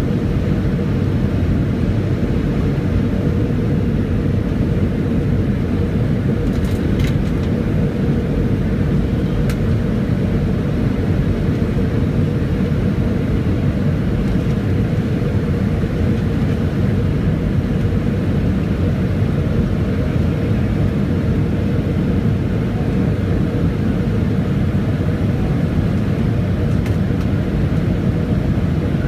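Steady cabin noise inside a Boeing 757-200 airliner: a constant rumble of engines and airflow with a steady hum.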